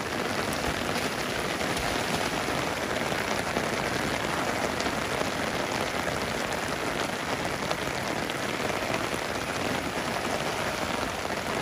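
Heavy rain falling steadily, a dense even hiss of drops landing on wet mud and puddles.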